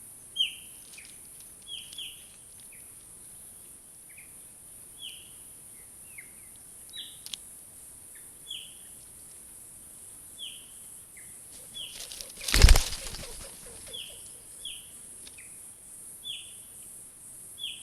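A bird giving short, high chirps about once a second over a steady high hiss. About twelve and a half seconds in there is one loud, brief rustle.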